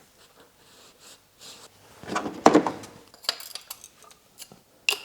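Metal hand tools and engine parts clinking and knocking during an engine teardown, irregular short clicks with a louder run of knocks about two seconds in.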